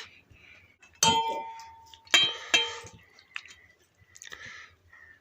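Dishes clinking as a plate or bowl is knocked while eating: one sharp clink that rings on briefly about a second in, two more close together a little after two seconds, then a few fainter clicks.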